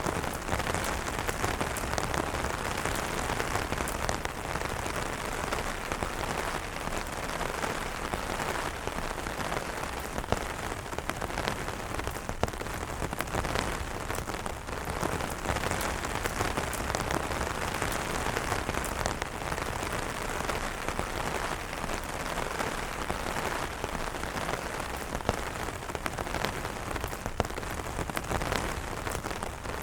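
Steady rain falling on umbrellas: a dense, even hiss with many separate drop taps.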